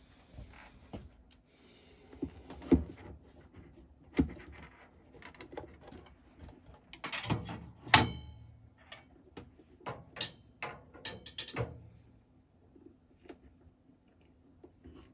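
Scattered clicks, knocks and rattles of objects being handled and set down, with the loudest sharp knock about eight seconds in.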